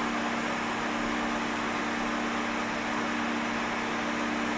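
Pet hair dryer blowing steadily on a low setting: an even rush of air with a steady motor hum underneath.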